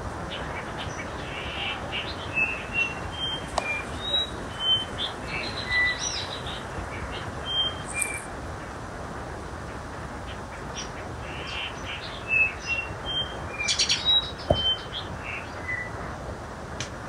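Birds chirping: many short, high whistled notes in two spells, through the first half and again near the end, over a steady hiss.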